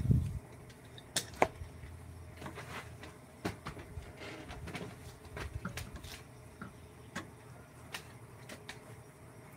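Irregular light taps and clicks of small hard objects being handled, with a low thump right at the start.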